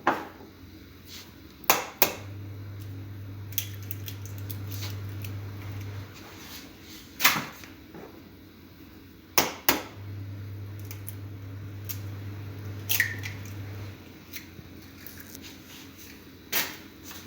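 Sharp knocks and clinks of kitchen bowl and utensils as cake batter ingredients are put together, some in quick pairs. A low steady hum comes in twice for about four seconds.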